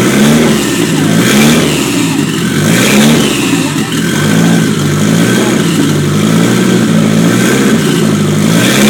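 Nissan SR20 inline-four engine running at a cold start, its speed rising and falling in a steady surge about every second and a half.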